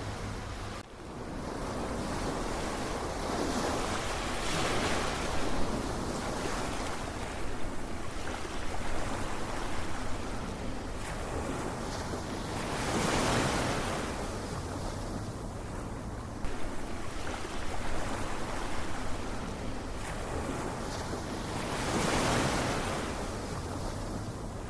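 Ocean waves washing in, the surf noise swelling and falling away about every nine seconds. There is a brief drop-out about a second in.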